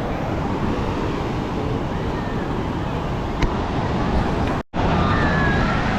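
Steady rush of ocean surf with wind noise on the microphone, and faint distant voices. The sound drops out for a split second about four and a half seconds in.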